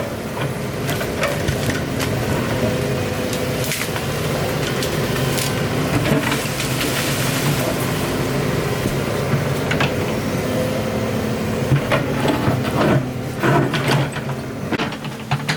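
Excavator's diesel engine running steadily under load, with scattered sharp knocks and scrapes, more of them near the end.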